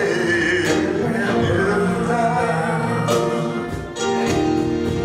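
Group singing a slow worship chorus with guitar accompaniment, the voices holding long notes, with a brief dip about four seconds in.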